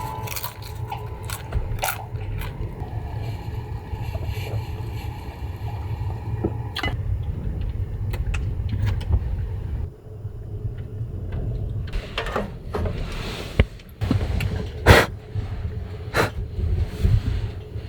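Strong gusting wind hitting the microphone: a low rumble that swells and drops, with scattered knocks and scrapes, the loudest about fifteen seconds in.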